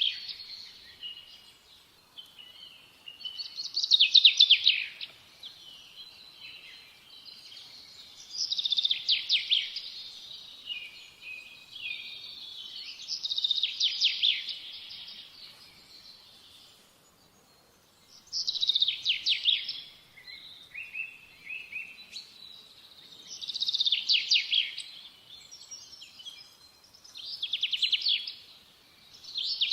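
Birdsong: a single songbird repeating high, rapid trilled phrases about every five seconds, with quieter twittering between them.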